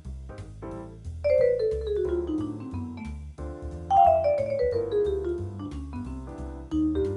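Jazz improvisation: a pitched melodic instrument plays two long falling runs of quick notes, then a rising phrase near the end, over a bass line moving note by note.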